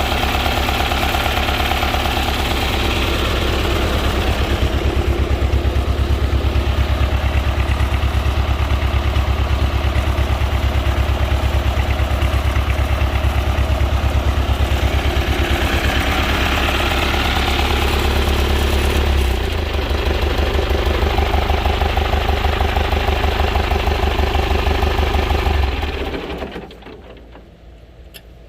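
Ford 801 PowerMaster tractor engine idling steadily and evenly, running smoothly. It dips briefly about two-thirds of the way through, and the engine sound dies away a couple of seconds before the end.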